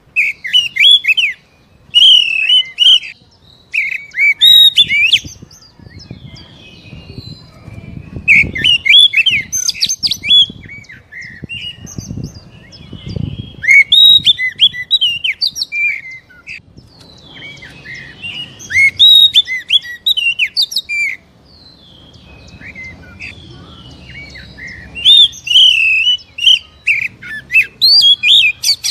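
Oriental magpie-robin (kacer) singing in repeated bursts of fast, varied chirps and whistles, broken by short pauses. It is a lure recording meant to provoke a caged magpie-robin into singing.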